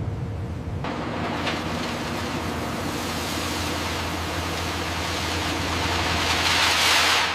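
Heavy factory machinery running: a steady low hum under a noisy grinding hiss that swells near the end and then cuts off abruptly.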